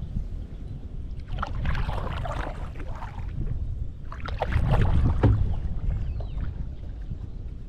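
Canoe paddle strokes in river water: two splashing strokes about three seconds apart, over a steady low rumble of wind on the microphone.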